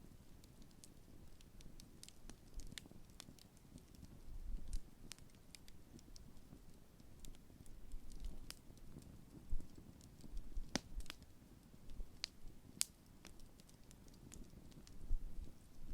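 Large wood campfire crackling: irregular sharp pops and snaps of varying loudness, a few louder ones among them, over a low rumble of burning.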